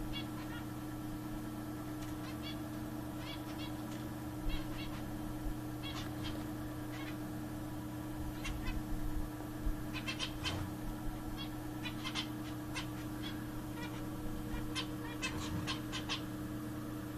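Zebra finches calling: many short, high calls scattered throughout, coming in quicker clusters around ten, twelve and fifteen to sixteen seconds in. A steady low hum runs underneath.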